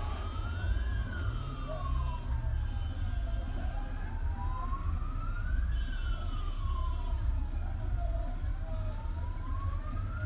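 A siren wailing slowly, its pitch rising and falling about every five seconds, over a steady low rumble.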